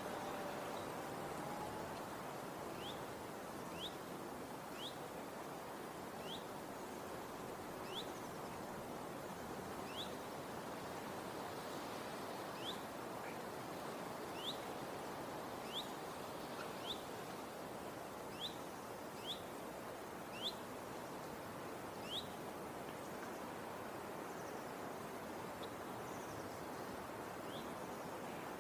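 Outdoor nature ambience: a bird gives short rising chirps, one every second or two, over a steady background hiss.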